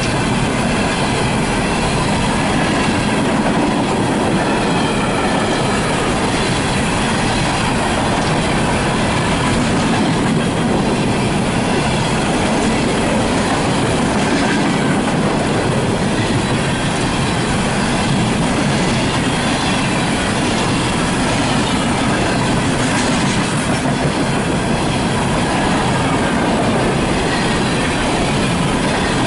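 Empty coal hopper cars of a CSX freight train rolling past close by: a loud, steady noise of steel wheels on rail, with a faint high-pitched squeal from the wheels.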